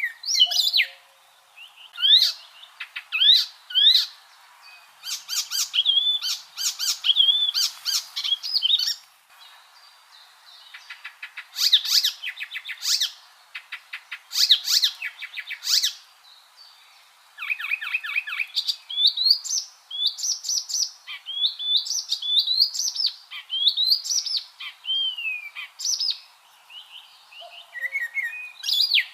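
Icterine warbler singing: a fast, varied song of rising whistles, chattering notes and rapid repeated note runs, delivered in bursts with short pauses between phrases.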